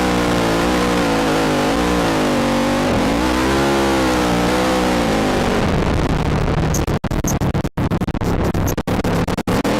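Quad (ATV) engine revving, its pitch rising and falling with the throttle. From about six seconds in it turns to a rough, noisy rumble broken by repeated split-second dropouts in the sound.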